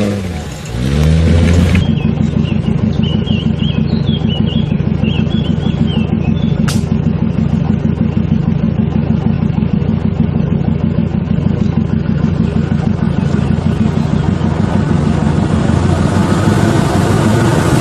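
Off-road 4x4's engine changing revs up and down for the first couple of seconds, then running steadily with a low, even pulse. A single sharp click about seven seconds in.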